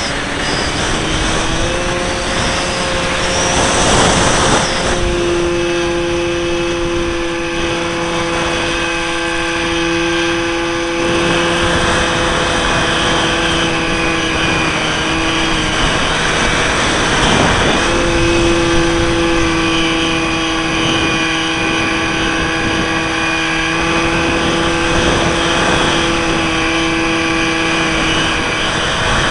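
Model aeroplane's motor and propeller, recorded by a camera riding on board: a steady whine that changes pitch a little with the throttle, dropping off about 15 seconds in and returning a few seconds later. Wind rushes over the microphone about 4 seconds in and again around 17 seconds.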